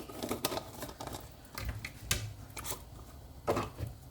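Scattered light clicks and knocks of dishes and utensils being handled while cooking, with a couple of louder knocks about halfway through and near the end.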